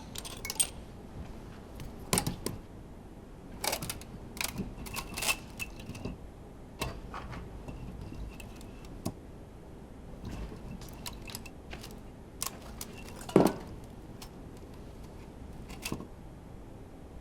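Scattered light metallic clicks and clinks at irregular intervals, with one louder knock about thirteen seconds in: metal engine parts and hand tools being handled during the teardown of a Honda V10 Formula One engine.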